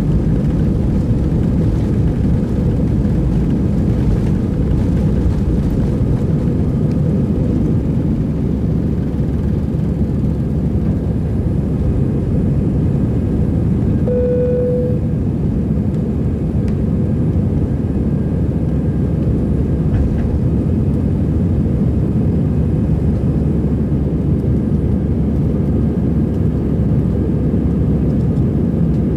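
Airbus A321-200 jet engines and airflow, a loud, steady rumble heard from inside the cabin during takeoff. A short single tone sounds about halfway through.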